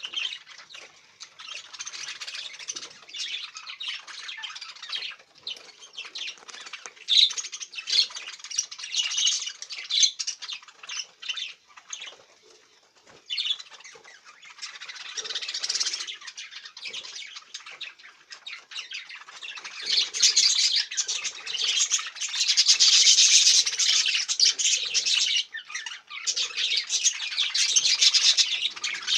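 Small pet parrots kept as love birds chattering and chirping nonstop in a dense, high-pitched stream. It dips briefly a little before halfway and is loudest about two-thirds of the way in.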